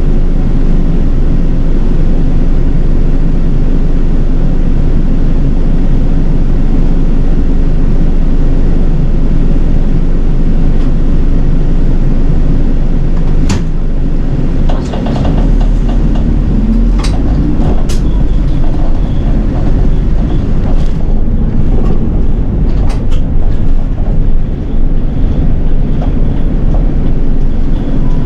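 City bus running along the road, heard from inside: a steady engine and road drone, with clicks and rattles from about halfway through.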